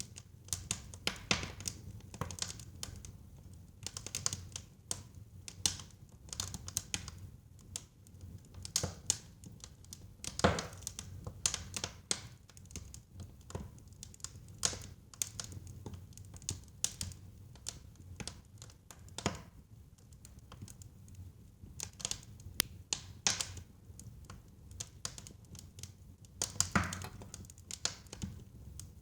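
Wood fire burning in a fireplace: a steady low rumble of flames under irregular crackles and sharp pops of burning wood, the loudest pop about ten seconds in.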